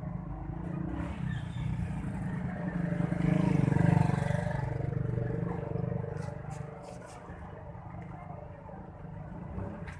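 A motor vehicle passing close by: its engine grows louder to a peak about three to four seconds in, then fades away.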